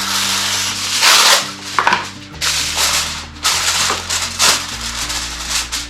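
Aluminium foil crinkling and rustling as it is handled and pressed over a casserole dish. A long crackling stretch over roughly the first three and a half seconds is followed by several short crinkles.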